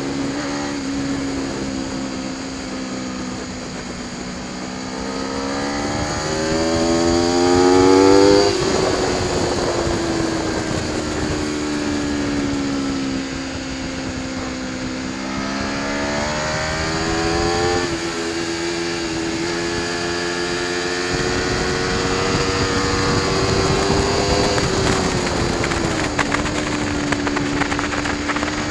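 Aprilia Tuono V4 1100 Factory's V4 engine under hard riding: revs climb and drop sharply twice, with stepwise jumps in pitch at gear changes, then hold steady before falling again near the end as the bike slows.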